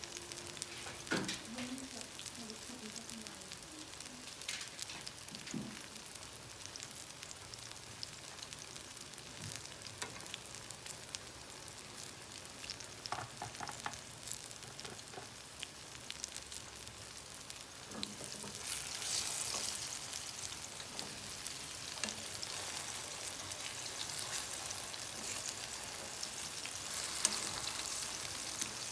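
Plantain slices frying in hot oil in a pan, a steady sizzle with occasional knocks and scrapes of a utensil against the pan. The sizzle grows louder about two-thirds of the way through.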